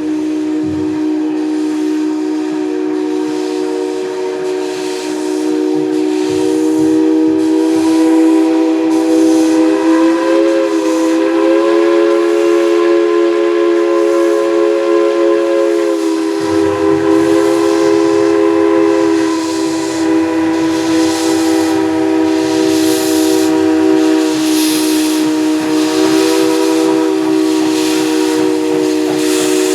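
A steam locomotive's chime whistle blowing one long sustained chord, its pitch rising a little for several seconds in the middle. Under it, steam hisses and exhaust chuffs come about once a second and quicken slightly toward the end as the locomotive gets under way.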